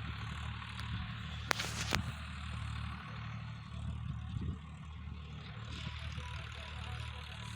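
Swaraj tractor's diesel engine running steadily with a low rumble. Two sharp knocks come about a second and a half and two seconds in.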